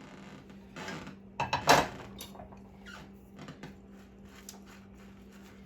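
Kitchen clatter: a run of knocks and clinks as utensils and containers are handled, loudest about a second and a half in, over a steady low hum.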